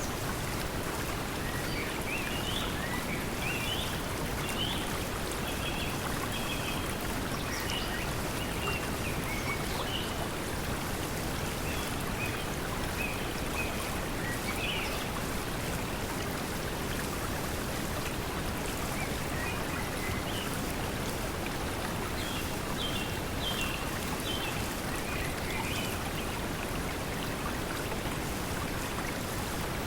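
Steady pink noise blended with flowing stream water, with faint bird chirps scattered throughout.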